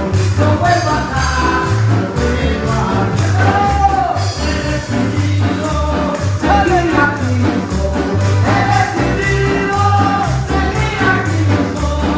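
Live praise music: voices singing a chorus over a band with a pulsing bass line and percussion keeping a steady beat.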